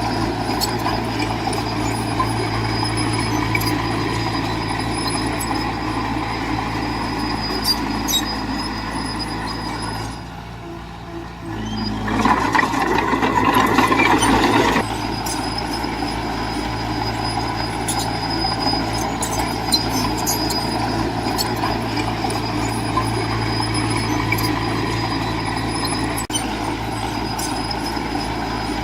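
Heavy construction machinery's diesel engine running steadily, with scattered sharp clicks and clanks. About ten seconds in it drops away for a couple of seconds, then a louder noisy burst lasts about three seconds before the steady engine sound returns.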